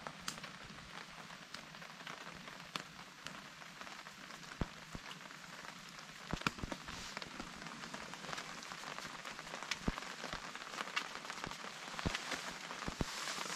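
Steady rain falling, an even hiss with scattered sharp ticks of drops, growing a little louder near the end.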